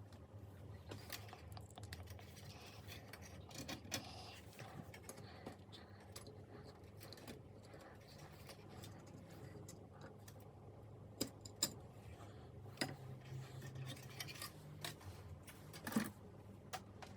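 Scattered small clicks and light metallic clinks, as of tools and small parts being handled during hands-on work on the computer, over a low steady hum. The sharpest clicks come in a cluster about two-thirds of the way in and once more near the end.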